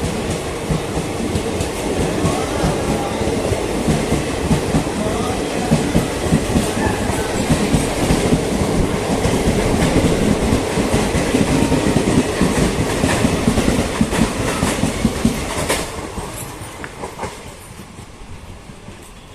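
Krishna Express passenger train running at speed, its wheels clattering over the rail joints and the coach rattling. The noise falls away sharply about sixteen seconds in.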